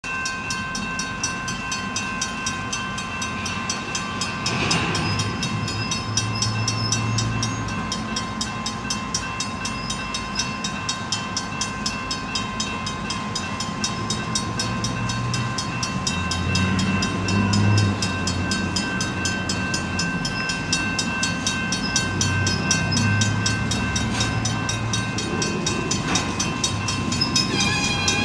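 Diesel freight locomotives running in a rail yard, the low engine sound swelling and easing several times as the throttle is worked, with a steady high whine throughout.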